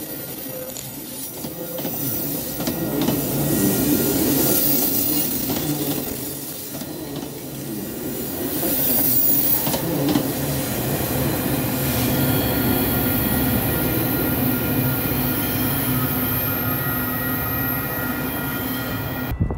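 Metra bilevel commuter cars rolling past close by, wheels squealing on the rails with a few clacks over rail joints.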